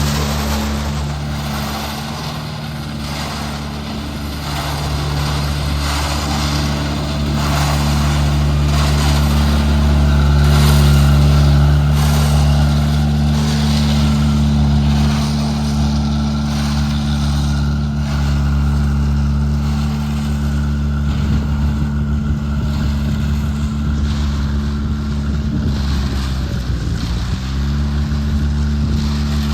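Diesel engine of road-construction machinery running steadily with a deep drone. Near the end its pitch sags briefly and recovers, as under a sudden load.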